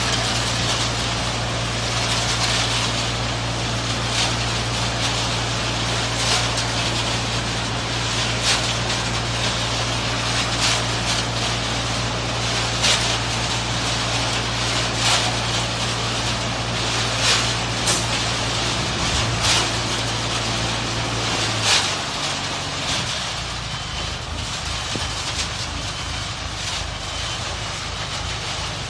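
Self-loading concrete mixer truck's engine running steadily with a hiss and frequent sharp clanks. About two-thirds of the way in, the steady low engine note drops away and turns uneven.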